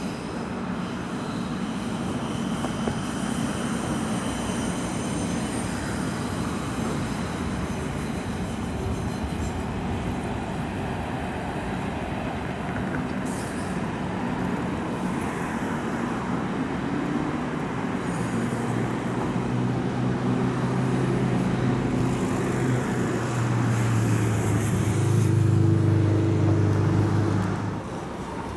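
Berlin S-Bahn electric train running along an elevated railway viaduct: a steady rolling rumble of wheels on rails. In the second half a humming drone builds and grows louder, then cuts off suddenly near the end.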